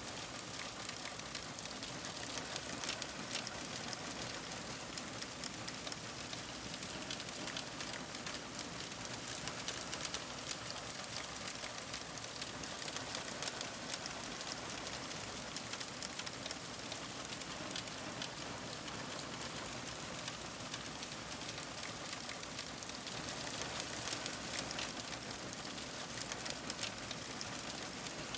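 Fire crackling steadily: many small pops and snaps over a soft hiss.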